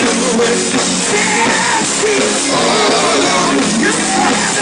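Live gospel singing with a band playing loudly: a voice held and bending between sung words over steady accompaniment.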